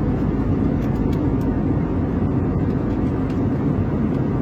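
Airliner cabin noise in cruise: a steady, loud low rumble of the jet engines and airflow.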